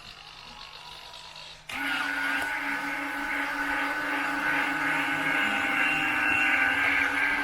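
Electric landing-gear retracts and gear-door servo of an RC jet cycling, a steady motor whine that starts abruptly about two seconds in and runs on, dipping slightly in pitch as it stops, with the doors now closing flush after the servo arm was reset.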